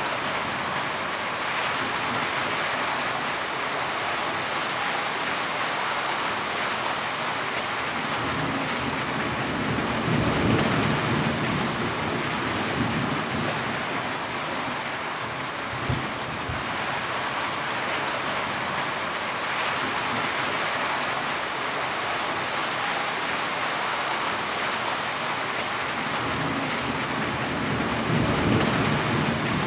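Heavy rain falling steadily, with low rolls of thunder swelling about a third of the way in and again near the end, and a single sharp tap about halfway.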